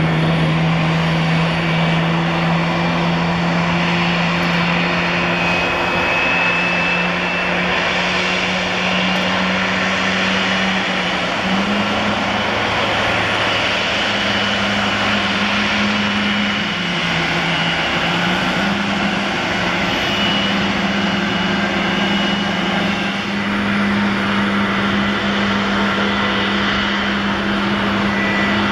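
Airliner engines running at close range: a loud, steady rushing noise over a low drone that steps up in pitch a few times and dips briefly near the middle, with a faint high whistle on top.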